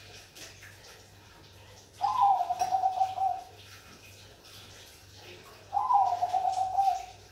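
Zebra dove (Bangkok perkutut) singing: two phrases a few seconds apart, each a slightly higher opening note dropping into a rapid, warbling coo that lasts about a second and a half.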